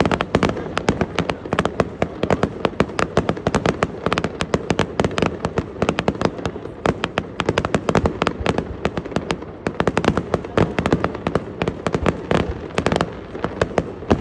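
Fireworks display: a dense, continuous barrage of sharp bangs and crackles from aerial shells bursting, several a second.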